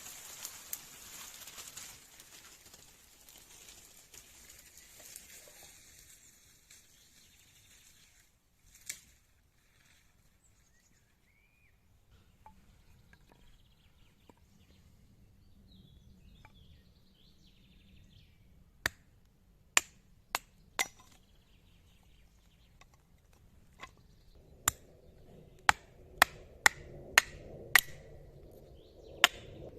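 A series of about a dozen sharp, short knocks of a tool striking wood, irregularly spaced at one or two a second, starting a little past the middle.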